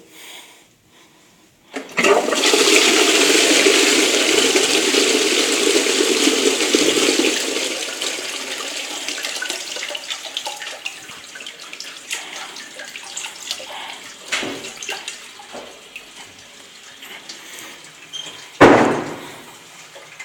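Toilet flushing: a loud rush of water starts about two seconds in and eases after about six seconds to a lower trickle of refilling. A short loud noise comes near the end.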